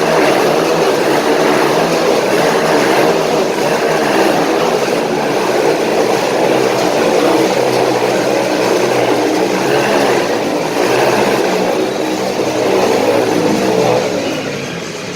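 Dirt bike engines revving continuously as the bikes circle inside a round steel cage. The engine sound eases off briefly near the end.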